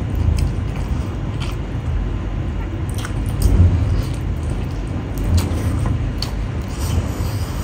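Close-up eating sounds: chewing and wet lip-smacks on mouthfuls of rice and pork trotter, heard as scattered short mouth clicks over a steady low rumble.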